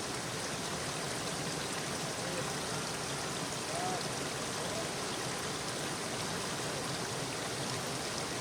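Steady rushing of running water, with a few faint short calls over it.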